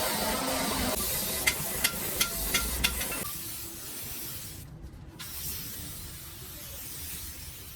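Five sharp metallic taps, then a steady hiss of compressed-air spray that cuts out for a moment about halfway through and starts again.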